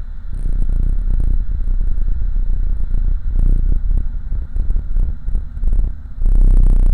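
5.3-litre LS V8 in a 1987 Oldsmobile Cutlass running under way, heard from inside the car as a deep, pulsing rumble. It swells just after the start, dips briefly near the end, then comes back louder.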